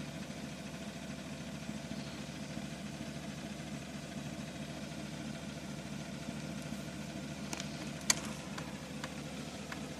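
A 5.3-litre V8 idling steadily through a 3-inch straight-pipe exhaust with no muffler. There are a few light clicks near the end, with one sharp click about eight seconds in.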